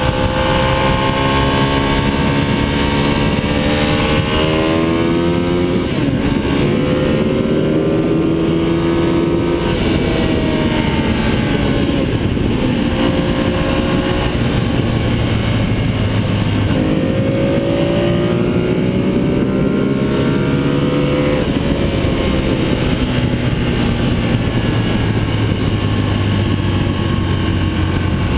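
Ducati 848 Evo's L-twin engine under hard acceleration, revs climbing and then dropping sharply at each upshift, several gears in a row. Near the end the revs fall away and the engine runs more steadily.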